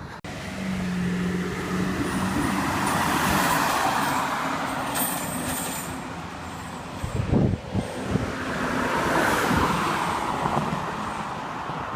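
A large road vehicle going by close to the microphone, its engine and road noise swelling and fading twice, with a steady low engine tone near the start. There is a cluster of knocks about seven seconds in.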